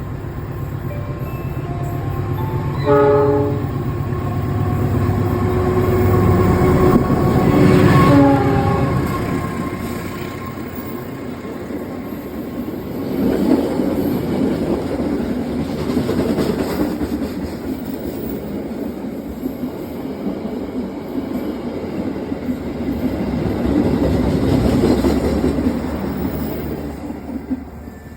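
Passenger train passing through a station: a diesel locomotive's engine rumbles while its horn sounds briefly about three seconds in and again around eight seconds. The carriages then roll past with wheel and rail noise that swells and fades twice.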